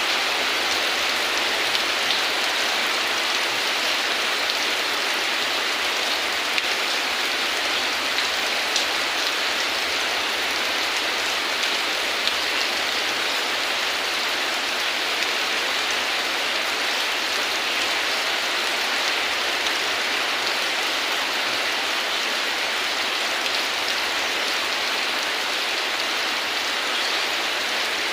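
Heavy rain falling steadily, an even downpour hiss with scattered drop ticks.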